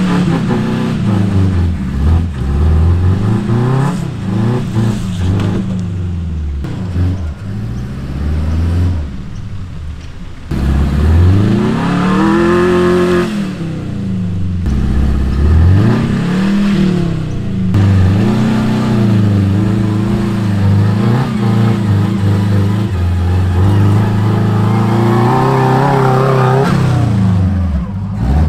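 Subaru Brumby ute's engine revving up and down as it climbs a rocky, rutted hill track under load, its pitch rising and falling every second or two.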